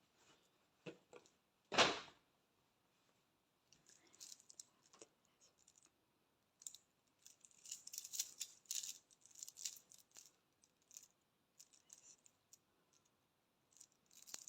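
Faint handling noises of packaging: scattered clicks and crinkly rustling, busiest in the second half, with one louder knock about two seconds in.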